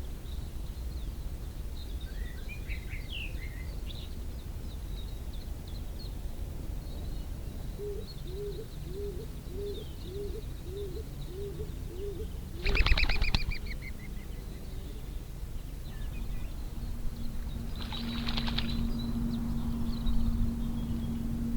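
Pond birds calling over a low outdoor rumble: high chirps, then a run of about nine low repeated notes at roughly two a second, a loud harsh call about 13 seconds in and another near 18 seconds. A steady low hum joins from about 17 seconds.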